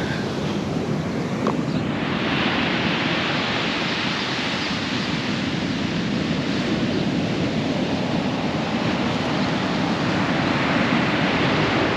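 Surf breaking and washing onto a sandy beach in a steady rush, swelling a little about two seconds in, with wind on the microphone.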